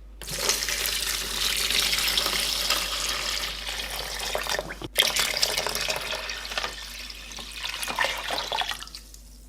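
Running water from a tap splashing steadily, cut off abruptly about halfway through and then resuming.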